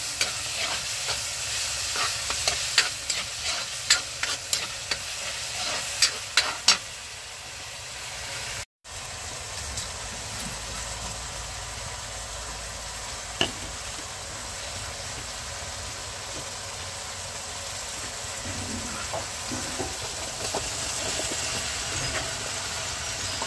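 Oil sizzling in a wok while a metal spatula scrapes and clacks against the pan, stirring sautéed aromatics. There are many sharp clacks at first, a short break about a third of the way in, then a steadier frying hiss that grows a little louder near the end as string beans and squash fry.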